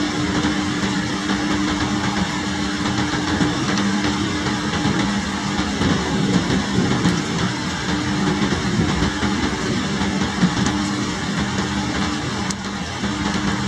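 Heavy rain falling steadily in a thunderstorm, a dense even hiss, with a low steady hum underneath that drops out and returns now and then.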